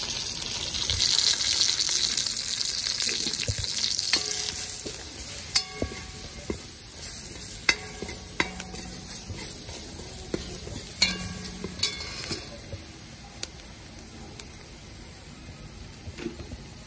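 Chopped onion, pimento pepper and garlic with freshly added curry powder sizzling in hot oil in a black iron pot, the curry being fried. A metal spoon stirs and scrapes, clanking sharply against the pot several times with a short ring. The sizzle is strongest in the first few seconds and dies down.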